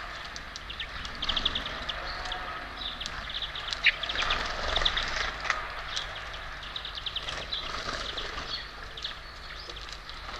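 Small songbirds at a feeder chirping and twittering, with many short calls and quick little trills overlapping.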